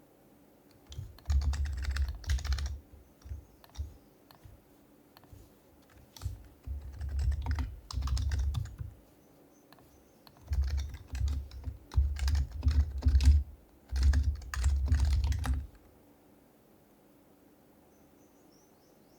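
Typing in irregular bursts on an HHKB Professional Hybrid Type-S keyboard, with its silenced Topre switches giving soft, thuddy keystrokes. The typing stops about 16 seconds in.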